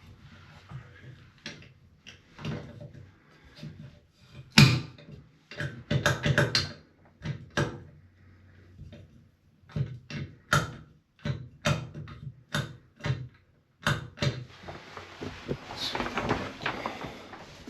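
Irregular knocks and clicks of a replacement bathtub spout being handled and fitted onto its pipe. About fifteen seconds in, water starts rushing, as the new spout is run.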